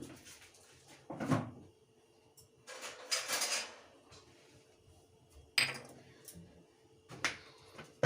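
Kitchen handling sounds: a few separate knocks and clatters of dishes or utensils, with a longer scraping, rustling sound about three seconds in.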